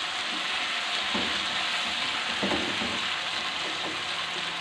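Chicken pieces sizzling steadily in hot oil in a nonstick wok while being browned, with a wooden spatula stirring and scraping through them a few times.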